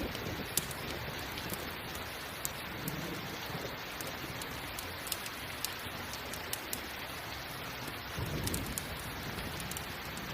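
Steady rain mixed with a crackling campfire, sharp pops scattered through it, and a low rumble of thunder about eight seconds in.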